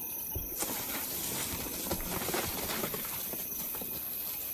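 Rustling and crackling of grass and brush as animals move through it, an irregular patter of soft crackles that sets in about half a second in.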